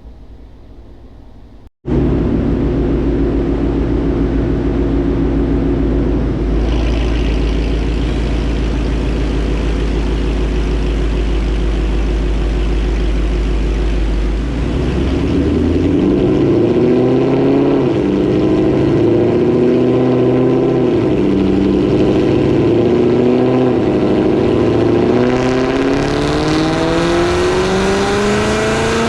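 Ford 5.0 V8 of a 2017 Mustang GT with headers and catted exhaust, running loud on a chassis dyno. It holds steady at first; about halfway in the revs rise and drop several times through the automatic's gear changes. Near the end the revs climb steadily in a pull.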